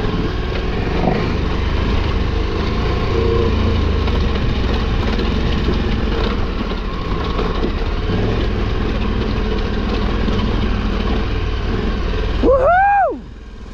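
KTM 1290 Super Adventure R's V-twin engine running at low revs. Near the end a short note rises and falls, then the sound drops away suddenly.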